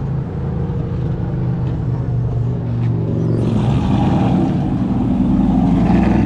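A pickup truck's engine running close by: a steady low rumble that grows louder, with a broader rushing noise joining about halfway through.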